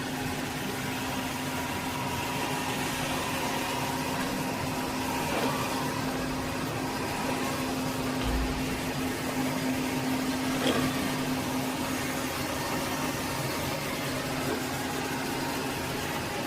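eufy E25 robot vacuum running, a steady motor whir with a constant low hum and a fainter higher tone, and a faint click or two.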